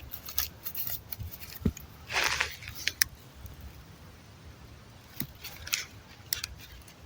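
Hands handling small fire-starting items: scattered light clicks, with a brief rustle about two seconds in.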